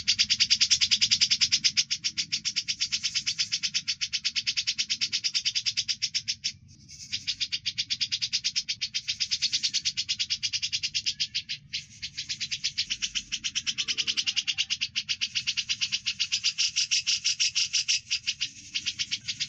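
Recorded songbird chatter: a loud, very fast, even run of chirps, many per second, breaking off briefly about six and a half and eleven and a half seconds in.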